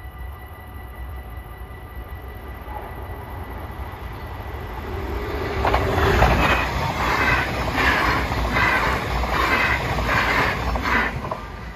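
Dutch NS double-deck electric passenger train passing close by. Its rushing noise swells about six seconds in, with an even, repeating clatter as the bogies go by, and drops away near the end. Steady ringing of level-crossing warning bells runs underneath.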